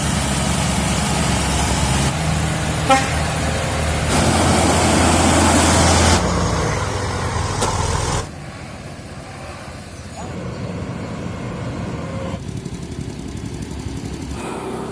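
Heavy Scania truck's diesel engine running, with a short horn toot about three seconds in. About eight seconds in the engine sound drops away abruptly to quieter road and engine noise.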